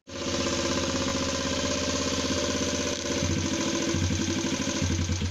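Delta moped's single-cylinder four-stroke engine running steadily, with a deeper pulsing from about three seconds in.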